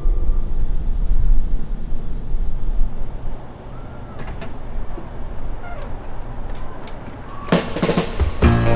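Low, steady wind and road rumble of a motorcycle ride, dropping to a quieter rumble after about three seconds. Near the end a drum-led swing music track comes in with brass.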